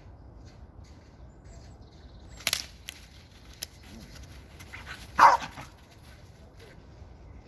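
A sharp click about two and a half seconds in, then a single short, loud animal call about five seconds in, over a faint steady background.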